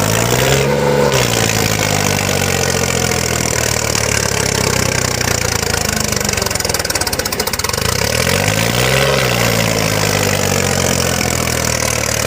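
Tractor engine running hard under load, its pitch rising and falling twice, as the rear tyres are spun in place to make them smoke, over a steady rushing noise.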